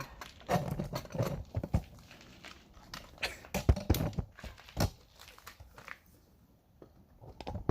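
Irregular clicks and knocks of metal parts being handled and fitted as the recoil pull-start assembly of a Yamaha Moto 4 ATV is put back on, busiest in the first five seconds and sparse after.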